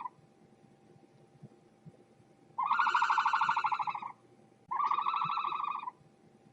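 An animal calling twice, each call a loud, buzzy, rapidly pulsing note about a second or more long, with a short gap between them. A faint steady hum sits underneath.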